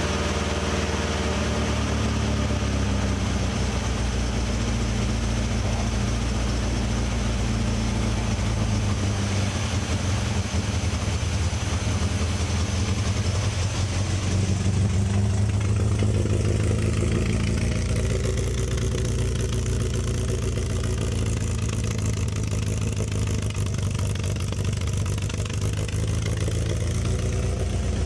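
MGB's 1.8-litre four-cylinder engine idling steadily just after a cold start, warming up on the choke. About halfway through its note turns a little louder and lower.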